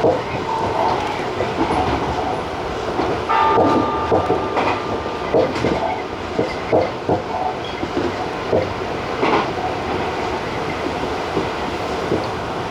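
Electric commuter express train running at speed, heard from the driver's cab, its wheels clacking irregularly over rail joints and points. A brief steady tone sounds about three seconds in.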